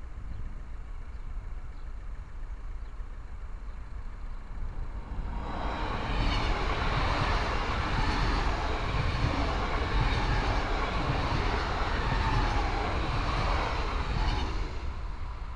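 Double-deck TER regional train passing close by. Its running noise swells in about five seconds in and stays loud as the coaches go past.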